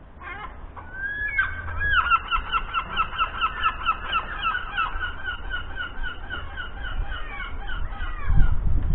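A bird calling a long series of repeated clear notes, about three a second, each note much like the last. Near the end comes a low thump.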